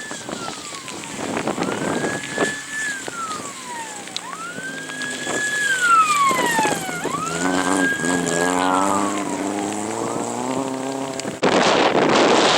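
Rally car engine revving up, holding briefly and falling away about four times, with a high whine that rises and falls with it. Near the end the sound cuts abruptly to a loud steady rush of wind on the microphone.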